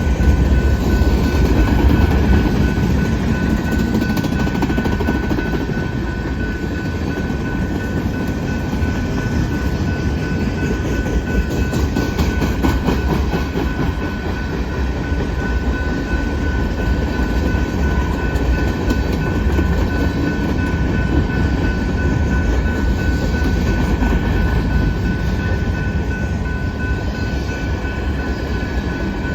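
Canadian Pacific manifest freight train's cars rolling past, a steady loud rumble of wheels on rail with a thin high steady tone over it.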